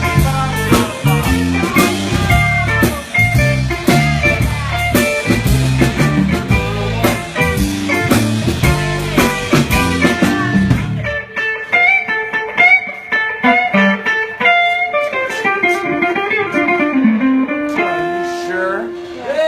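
Blues band playing electric guitar over bass and drums with no vocals. About halfway through, the drums and low end drop out, leaving the guitar playing bending single notes on its own.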